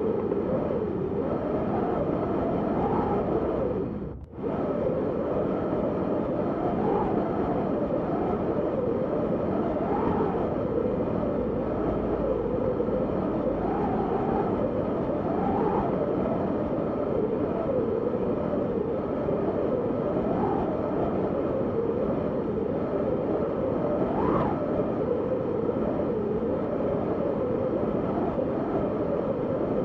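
Strong wind blowing steadily with a low, wavering howl that rises and falls in pitch. It cuts out for an instant about four seconds in.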